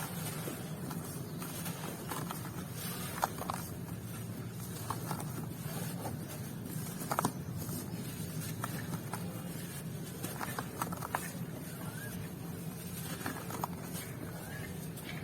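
Dry, dusty clumps crumbling, with a steady soft crunch and scattered sharp little cracks.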